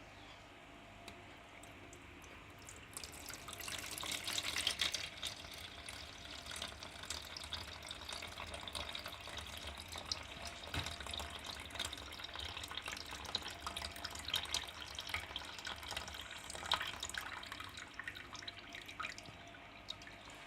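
Tannin-stained water being poured off a container of soaked cones, splashing and trickling. It builds about three seconds in, is loudest soon after, then runs on unevenly with drips and small splashes.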